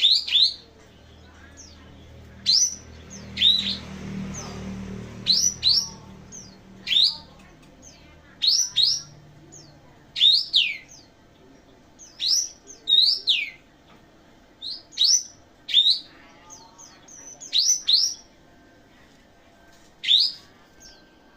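Kapas tembak songbird singing: sharp, high whistled chirps that sweep downward, often in quick pairs, repeated every second or two.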